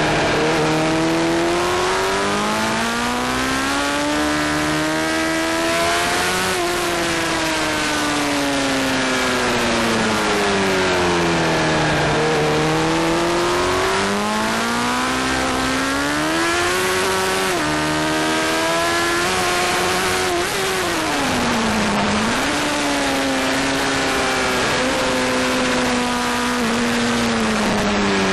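Honda sport motorcycle's engine heard from an onboard camera at speed on a race track: the revs repeatedly rise and fall through the corners, with a few sudden drops in pitch at gear changes. Steady wind rush runs underneath.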